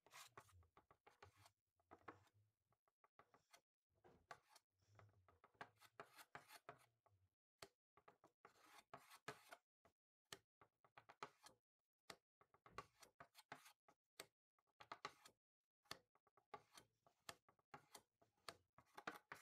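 Near silence with faint, irregular clicking and rubbing, like small objects being handled.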